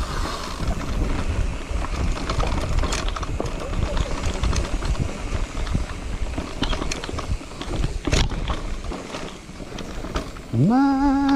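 Riding over rough trail ground: steady wind buffeting on the microphone with scattered knocks and rattles. Near the end a man starts humming a tune.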